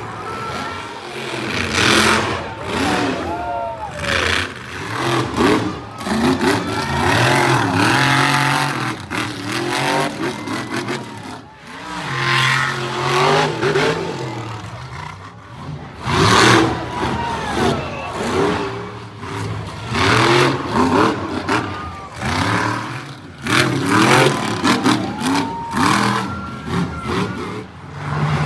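Monster truck engine revving in repeated surges, its pitch rising and falling.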